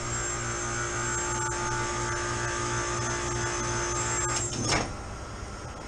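Chiller plant running, with its condenser fans and compressor going: a steady machine hum with a pulsing low drone and a steady whine. The whine cuts off with a short clatter about four and a half seconds in, leaving a quieter hum.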